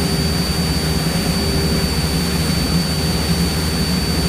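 Cessna 172's piston engine and propeller running steadily in flight, a constant drone heard inside the cabin, with a thin, steady high whine over it.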